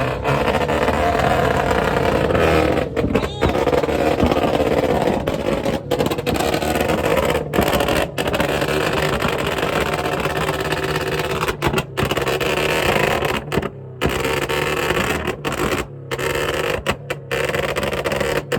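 A loud car engine and exhaust running steadily, a constant low drone with no speech over it.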